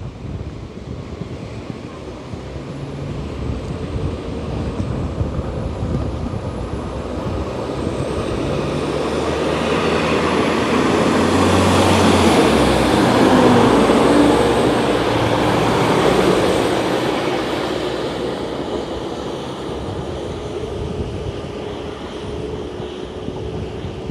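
Diesel multiple unit train passing through the station, growing louder to a peak about halfway through and then fading, with a high whine over the rumble. Strong wind buffets the microphone.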